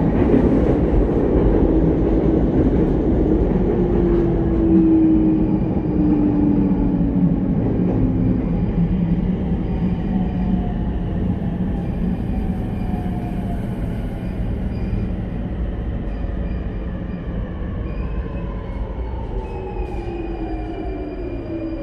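Sotetsu 10000 series electric train heard from inside the car: wheel and rail running noise with the whine of its Mitsubishi IGBT-VVVF inverter. Over the second half the whine falls steadily in pitch and the running noise fades as the train slows under braking into a station.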